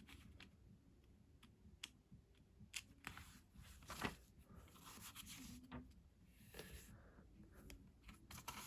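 Near silence with faint handling noises: a few soft clicks and paper rustles as a Lego instruction booklet is handled.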